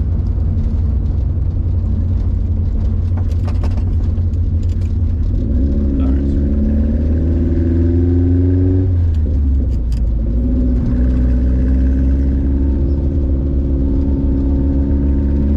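1992 Subaru Sambar kei truck being driven, heard from inside the cab over a heavy low road rumble. The engine note rises as it accelerates, drops at a gear change about nine seconds in, then rises again.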